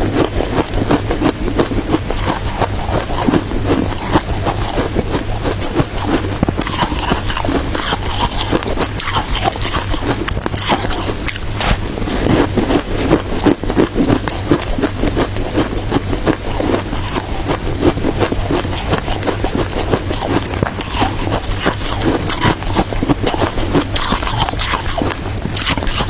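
Frozen shaved ice with matcha being bitten and chewed close to the microphone: a dense run of crunchy, crackling crunches over a steady low hum.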